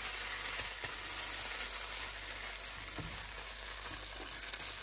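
Grated apple sizzling in ghee in a non-stick kadai, a steady hiss with a few faint scrapes of the spatula as it is stirred. Its own water has cooked off, so the apple is now frying in the ghee.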